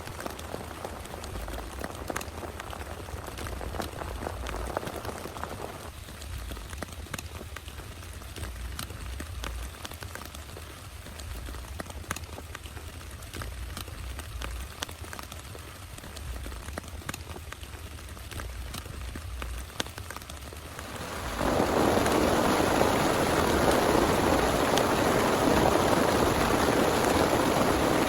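Rain falling, with many separate drop hits ticking through a steady patter. About three-quarters of the way through, it abruptly turns much louder and denser into a heavy downpour.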